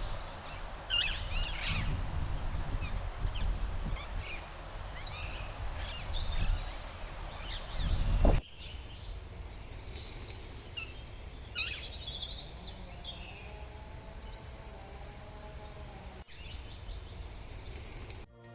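Birds chirping and calling, short high calls scattered throughout. A steady low rumble lies under the first half and stops abruptly a little past halfway, leaving quieter scattered calls.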